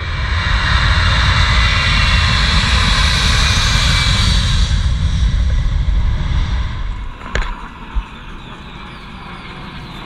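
A fixed-wing aircraft flies past loudly, its engine noise swelling and then fading away after about six seconds. Two short sharp knocks come near the end.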